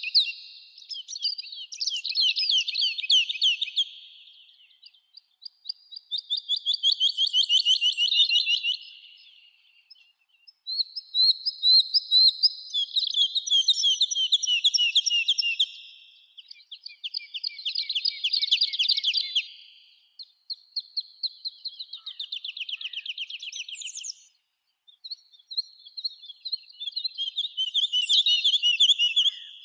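Songbirds in a summer forest singing fast, high trilled songs, each two to four seconds long, repeated with short pauses between them.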